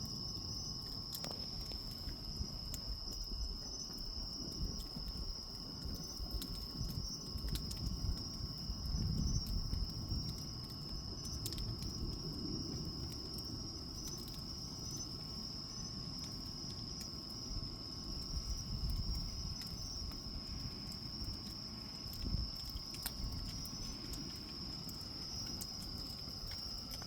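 Campfire crackling, with scattered sharp pops and a low uneven rumble, over a steady high-pitched drone of insects singing.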